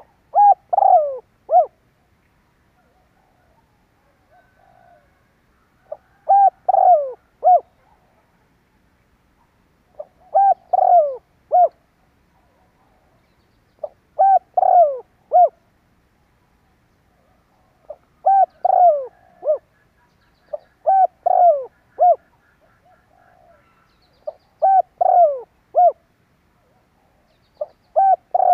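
Spotted dove singing. It repeats its cooing phrase about every three to four seconds. Each phrase has four coos, the third longest and falling in pitch.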